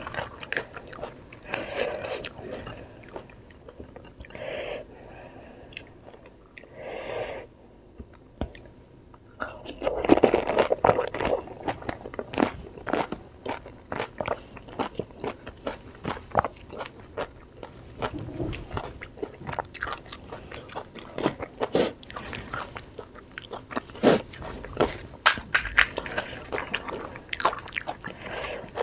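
Crisp fried puri shells of pani puri crunching as they are bitten and chewed close to the microphone, in many sharp, irregular crunches, loudest about ten seconds in.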